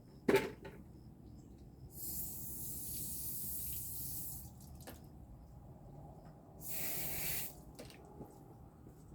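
Water running from a tap in two spells, the first lasting about two seconds and the second, shorter one near the end, as hands are rinsed off. A single sharp click comes just at the start.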